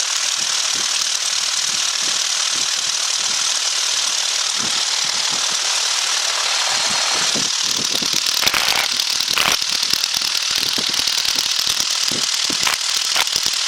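Cessna's single piston engine and propeller idling, heard from inside the cabin as a steady hiss with a fast, even clatter of firing pulses.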